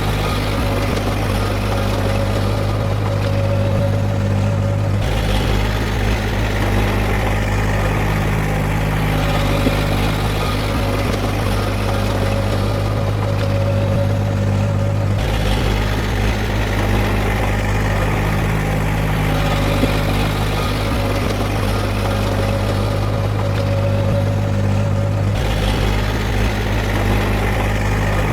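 Heavy diesel engine of earthmoving machinery running steadily, a constant low drone. Its tone changes abruptly three times, about every ten seconds.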